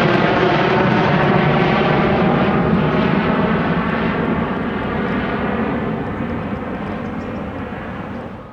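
Jet airliner's engines running loud as the plane passes, then fading steadily as it moves away, the higher hiss dying out first.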